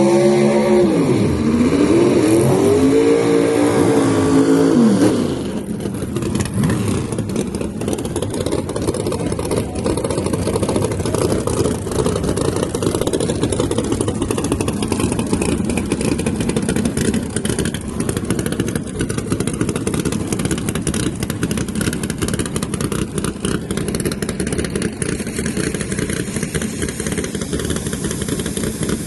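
Drag car engine being revved: its pitch drops, rises, holds for about two seconds and falls away about five seconds in. It then settles into a loud, choppy idle.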